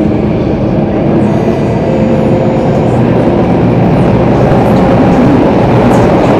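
Singapore MRT Circle Line train running underground, heard from inside the carriage: a steady rumble of wheels and traction motors with faint whining tones, growing slightly louder.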